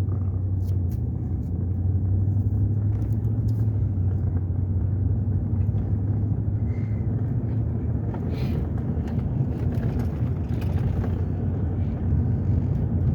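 Steady road and engine rumble of a car heard from inside the cabin while driving, with a low hum and a few light clicks.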